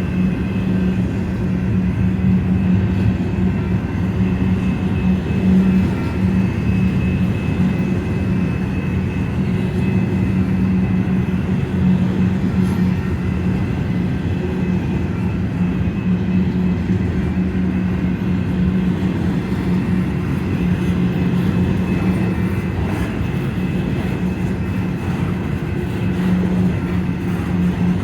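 Union Pacific freight train rolling past, a steady low rumble that holds without a break, with a faint high ringing tone above it.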